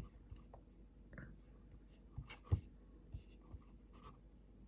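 Faint, scattered small clicks and rustles of handling, the loudest about two and a half seconds in, over a low steady room hum.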